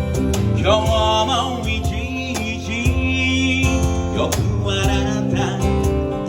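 Live band music led by guitar, with a wavering lead melody line over sustained chords.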